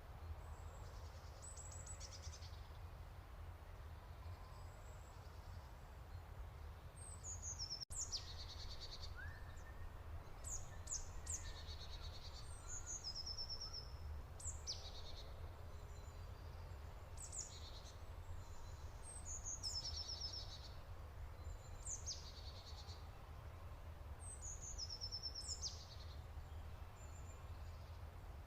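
Small birds chirping and twittering: many short, high calls, several falling quickly in pitch and some quick trills, over a steady low rumble.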